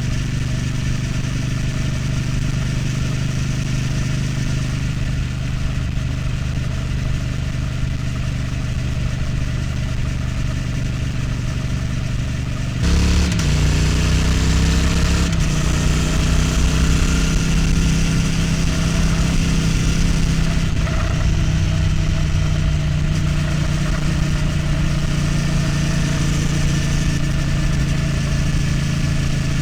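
Triumph Street Twin's 900 cc parallel-twin engine and exhaust running steadily while riding. About halfway through, the engine note changes suddenly and becomes louder, then holds steady again.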